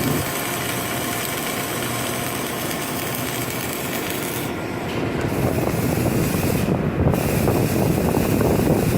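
Steady industrial noise, joined about five seconds in by a dense, irregular crackle typical of electric arc welding.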